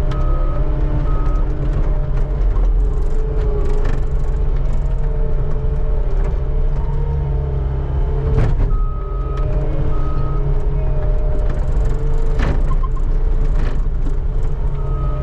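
Skid steer engine running steadily under load while scraping snow, its backup alarm beeping in short runs a few times as it reverses. A couple of sharp knocks come from the machine partway through.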